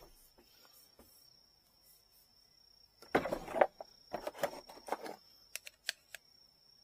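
Handling noises from rod parts and tools on a workbench: quiet at first, then a burst of rustling and knocks about three seconds in, followed by a few sharp clicks. A faint steady high whine runs underneath.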